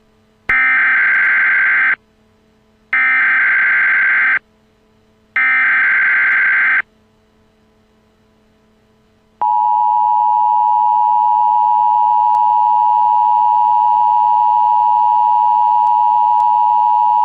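Emergency Alert System opening: three bursts of SAME digital header tones, each about a second and a half long with short gaps between them. About nine seconds in, the steady two-tone EAS attention signal starts and holds for about eight seconds.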